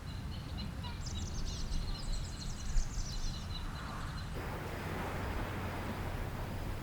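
Birds chirping rapidly over a steady background rumble. About four seconds in the birdsong stops abruptly and a plain steady hiss takes over.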